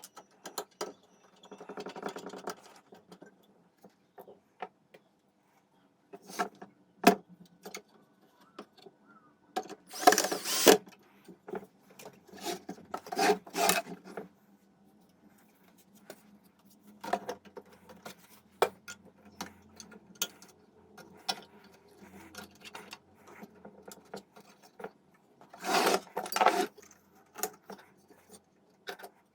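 Hands and tools working on parts of a stereo unit: scattered sharp clicks and knocks with a few short bursts of rubbing or scrubbing, over a faint steady hum.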